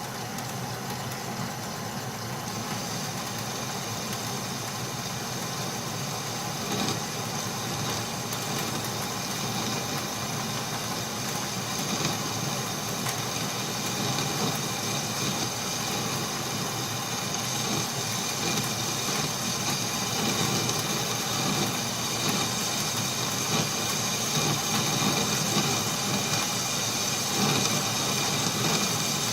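Metal lathe running steadily while a boring bar takes a 15 thou cut inside a hole in steel plate, the motor and gearing humming under the scrape of the cut, getting slightly louder toward the end.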